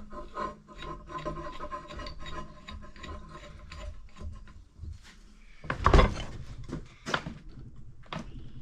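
Tools being shifted and rummaged on a cluttered workbench, a run of small clinks and scrapes, with one louder clunk about six seconds in.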